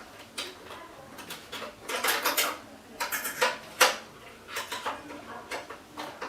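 Irregular metallic clicks and clinks from handling the small metal parts of a sewing machine, with a dense clatter about two seconds in and two sharp knocks a little after three seconds and near four seconds.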